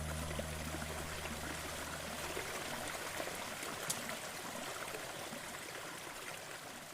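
Steady rush of waterfall water, slowly fading, with the last low guitar note ringing out and dying away in the first couple of seconds.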